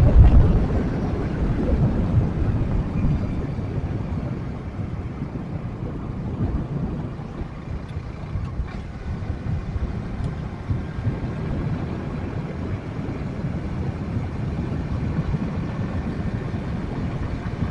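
Wind rushing over the microphone of a moving motorcycle, with the engine of the Yamaha Jupiter MX 135 underbone running beneath it as it rides along; the rumble is strongest in the first second.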